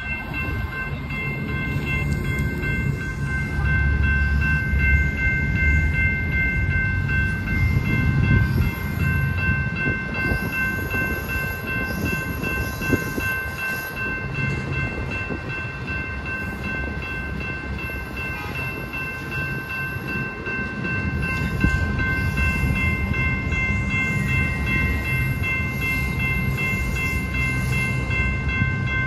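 Double-stack intermodal freight train's well cars rolling past, a continuous low rumble and clatter of wheels on rail. Steady high-pitched ringing tones sound over it.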